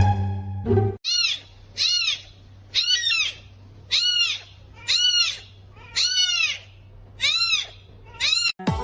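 An animal's high-pitched calls, eight in a row about once a second, each rising then falling in pitch. Music plays for the first second and returns just before the end.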